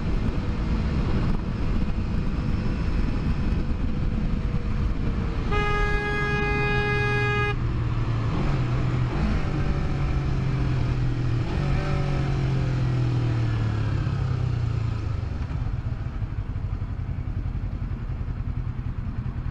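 Motorcycle riding in traffic under a steady rush of road noise; about five seconds in, a horn sounds one steady blast of about two seconds. Afterwards the engine note wavers and then drops off.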